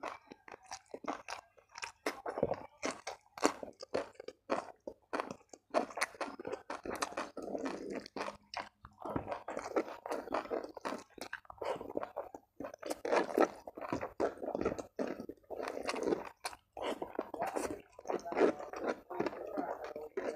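Close-miked eating: crunching bites and chewing of raw cucumber, and of shredded chicken and rice eaten by hand. It comes as a continuous run of many short, irregular crunches.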